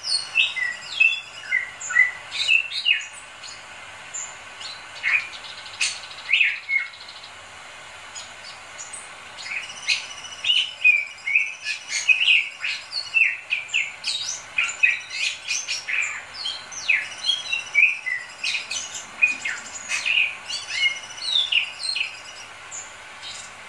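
Bali myna singing in full voice: quick runs of short whistles, chirps and sharp clicking notes, many sliding up or down in pitch. The song thins out for a few seconds about a third of the way through, then comes back in a dense run.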